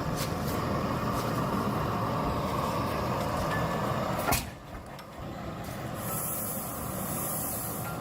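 Large old engine running steadily. A sharp click comes a little past the middle, after which the running is quieter and a high hiss joins in.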